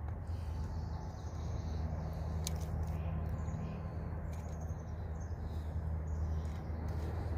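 Faint bird chirps over a steady low rumble, with a few soft clicks.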